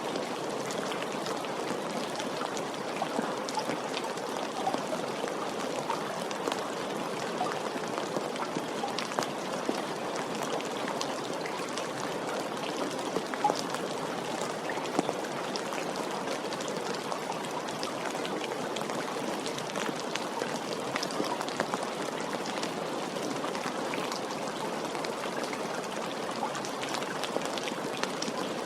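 Steady, gentle rain falling, an even hiss sprinkled with many small drop ticks.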